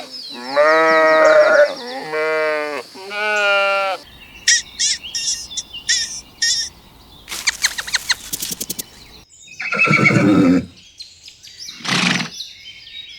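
Sheep bleating: two long wavering bleats. About four seconds in, the sound switches to other animal calls: short high chirps, a quick rattling run of clicks, and then two louder harsh calls.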